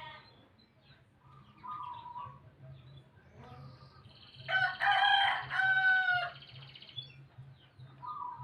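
A rooster crows once about halfway through, a loud call of about two seconds. Fainter short bird calls come before it, over a faint steady low hum.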